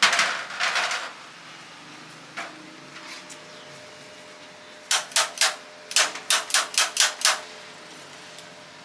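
About a dozen sharp knocks in quick succession, starting about five seconds in, after a louder noisy rustle or scrape in the first second and a single knock in between.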